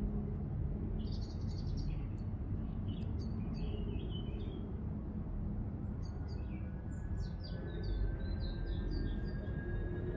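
Small birds chirping, with short high calls scattered through, over a steady low background rumble.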